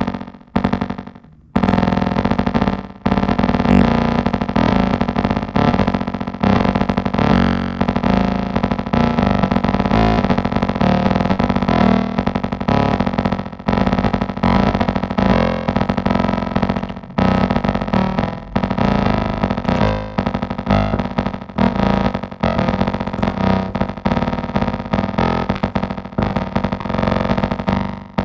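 Elektron Digitakt playing a looped, sequenced synth bass line with a lot of noise in its tone, chopped into a fast repeating pattern. It drops out briefly about a second in, then restarts and runs on.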